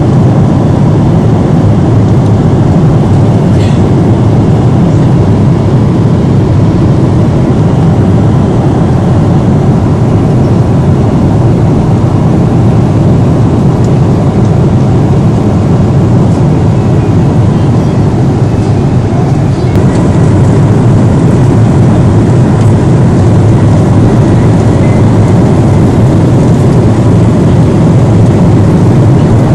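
Steady cabin noise of a passenger aircraft in flight: engine and rushing-air noise, heaviest in the low range, with a faint steady hum over it.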